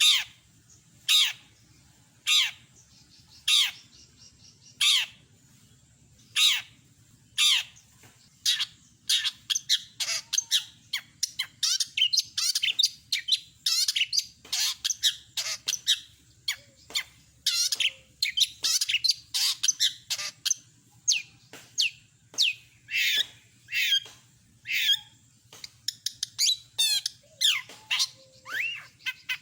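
Long-tailed shrike (cendet) singing. For the first several seconds it gives single sharp falling calls about once a second, then it breaks into a dense, rapid run of varied high notes and phrases.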